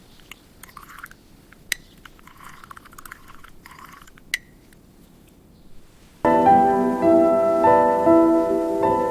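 Soft piano music pauses, leaving a quiet stretch with a few faint clinks and rustles, then resumes about six seconds in.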